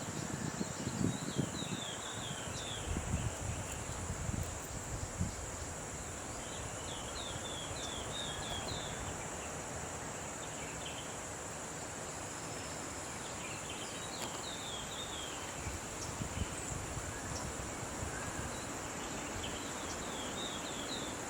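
Tropical outdoor ambience: a steady high insect drone with a bird repeating a short run of quick chirped notes four times. Low rumbling knocks, strongest in the first few seconds, sit beneath.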